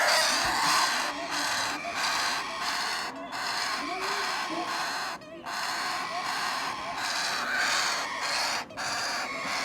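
Parrot chicks begging to be hand-fed: a near-continuous run of harsh, raspy squawks, one after another with brief pauses.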